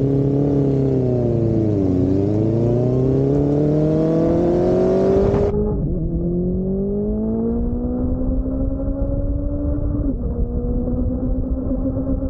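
Motorcycle engine on the move, recorded on board: the revs fall about two seconds in, then climb steadily as it accelerates. About halfway through the sound turns duller. Near the end the pitch drops sharply with an upshift, then climbs again.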